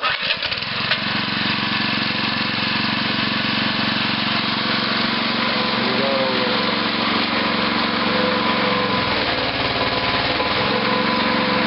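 Small pull-start engine of a towable mini backhoe catching right away and then running steadily, with a slight change in its note about two-thirds of the way in.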